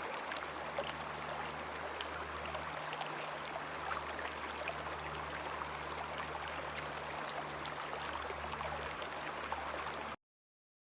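Wet Beaver Creek running over rocks: a steady rushing of water with small splashes, with a low hum underneath. The sound cuts off suddenly near the end.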